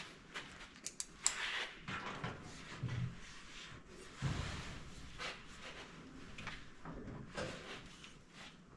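Irregular clicks, knocks and scraping of hand tools and metal parts being handled, with a few heavier clunks.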